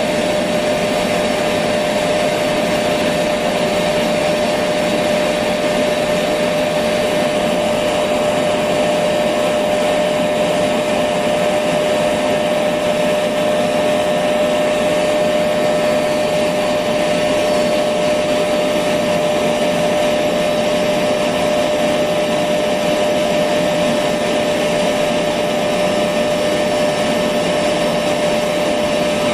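Electric vacuum cleaner running steadily: a constant whooshing hum with a steady whine, played continuously as white noise for a baby's sleep.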